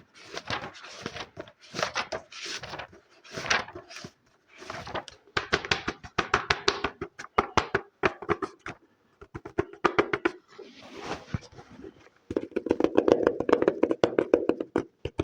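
Close-miked ASMR trigger sounds made by hand: a run of short scratchy swishing strokes, then quick fingertip taps that speed up into dense, rapid tapping from about twelve seconds in.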